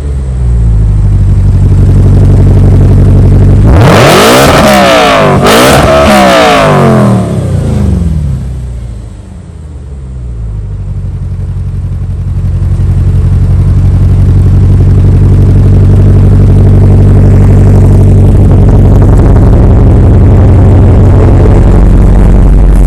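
Audi engine running through an exhaust with the muffler and resonator deleted: idling, then revved twice in quick succession about four seconds in, and settling back to a steady idle.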